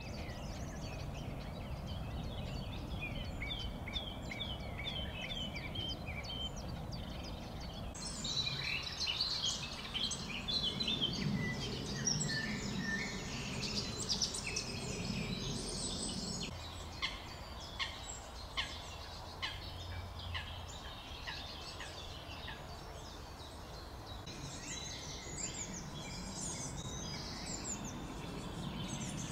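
Songbirds singing outdoors, many short chirps and trills from several birds, over a low steady background rumble. The first few seconds hold a quick repeated series of short falling notes, and the song grows busier after that.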